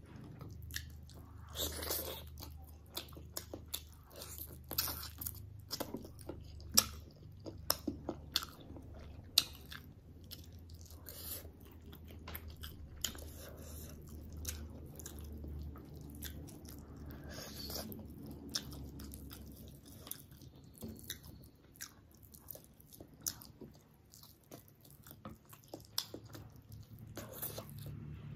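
Close-miked eating of chicken curry and rice by hand: chewing and mouth smacking, with many irregular sharp clicks and crunches.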